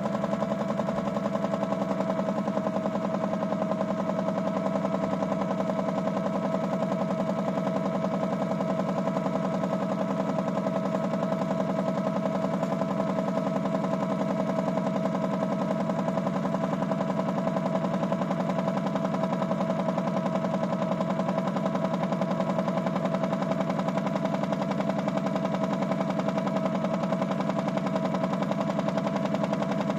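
Toy Miele W1 washing machine's small electric motor running steadily through a wash cycle: a constant hum with a fast, even pulsing.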